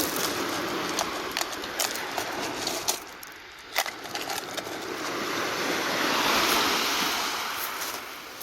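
Sea waves washing in, one surge building from about five seconds in and then easing off, with a few sharp light clicks in the first half.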